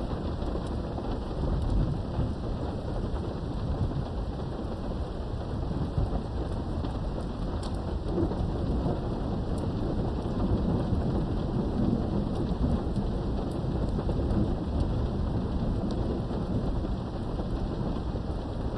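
Steady heavy rain heard from indoors behind a window, with low thunder rumbling underneath in slow swells.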